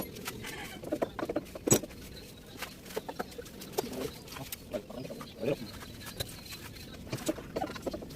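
Chickens clucking in short scattered calls, mixed with sharp clicks and taps.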